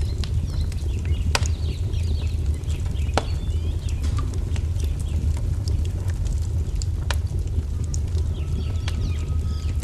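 Wood fire burning with a steady low rumble and a few sharp pops, three of them standing out. Small songbirds chirp over it in quick twittering phrases near the start and again near the end, with one thin held whistle near the end.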